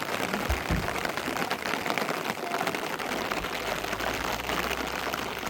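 Steady rain falling, an even hiss full of small drop hits, with two dull low thumps just under a second in.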